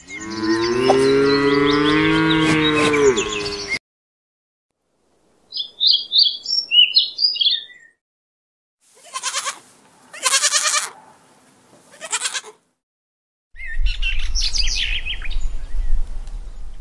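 A cow mooing once, a long drawn-out call of nearly four seconds with the pitch sliding up and down. After a pause come short high bird chirps, and near the end more bird calls over a low rumble.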